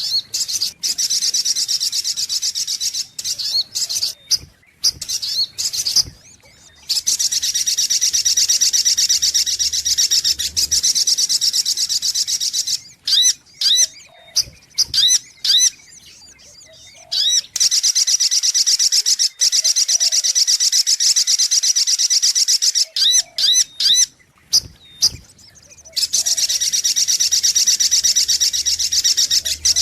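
Sogok ontong (little spiderhunter) calling: long bouts of a very rapid, high-pitched stream of repeated notes, broken by short pauses with a few separate sharp chirps.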